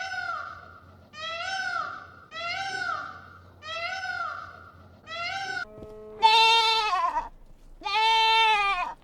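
A kitten mewing in short, high calls about once a second, then, after an abrupt cut, a goat bleating twice in long, loud, wavering bleats of about a second each.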